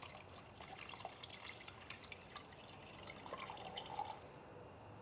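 Paint reducer being poured into a mixing cup of base coat: a faint, uneven trickle with small drips, thinning the paint to a 2-to-1 mix.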